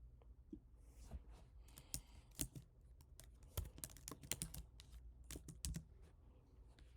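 Typing on a computer keyboard: a run of quick, irregular keystrokes, faint and close, easing off near the end.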